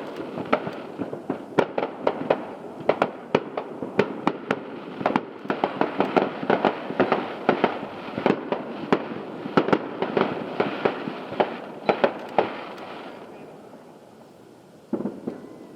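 Aerial fireworks display: a dense run of sharp bangs with crackling between them, several a second, that thins out about 13 seconds in and fades, with one more bang near the end.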